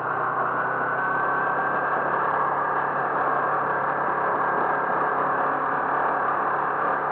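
A car driving, its engine and road noise running steadily, with a faint whine that rises slightly about a second in.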